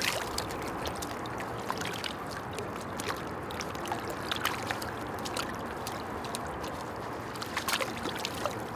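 Water splashing and dripping as a net of fish is let go back into a lake, with many small splashes over a steady hiss and a louder flurry of splashing near the end.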